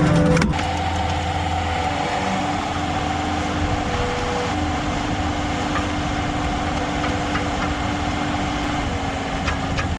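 Skid steer's diesel engine running at a steady speed, with a steady hum throughout; the sound steps down in level about half a second in.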